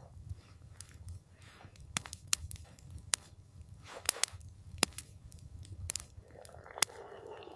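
Campfire crackling, with irregular sharp pops and snaps over a low steady rumble of the burning fire. A soft rushing swell rises and fades near the end.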